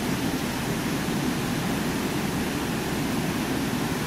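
Steady rush of water pouring over a small waterfall.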